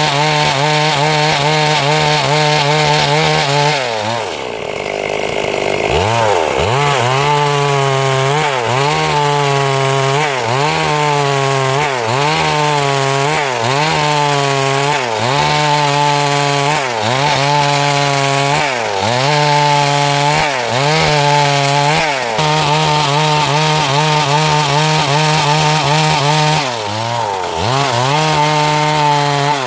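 Stihl MS382 two-stroke chainsaw running at high revs while cutting wood. Its engine note drops toward idle about four seconds in and climbs back, then dips and recovers about once a second for a while as the chain bites into the wood, with one more brief dip near the end.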